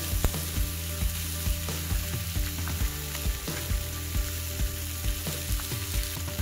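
Bacon, sausage patties and shredded hash browns frying on a hot griddle: a steady sizzle with frequent sharp grease pops.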